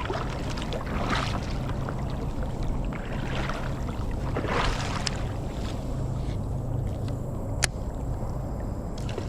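Creek water running over a riffle, a steady rushing with a few louder splashing swishes and one sharp click later on.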